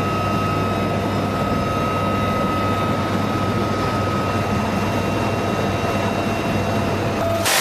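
UH-1Y Venom helicopter in flight: steady rotor and turbine noise with a low hum and a high, even whine. Near the end the whine stops and a brighter, hissier noise takes over.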